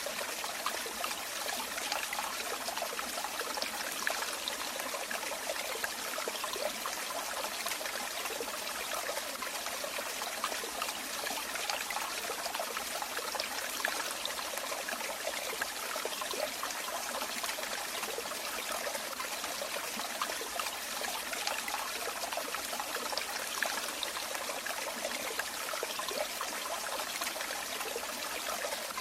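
Running water trickling and splashing steadily, a small stream or falling water with no pauses.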